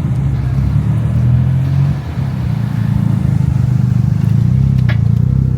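Loud vehicle exhaust at close range: an engine running with a deep, pulsing note that dips briefly about two seconds in, then picks up again. A short click sounds near the end.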